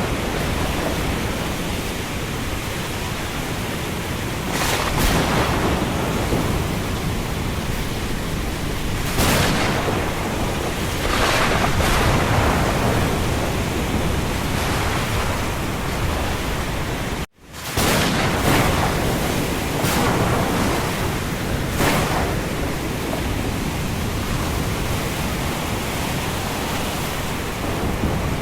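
Steady rushing noise of a wind and rain storm, with several brief louder surges. The sound cuts out for an instant about seventeen seconds in.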